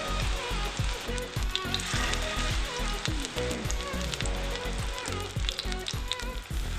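Beer-battered fish fillets shallow-frying in hot vegetable oil: a steady sizzle with many small crackles and pops as the batter seals.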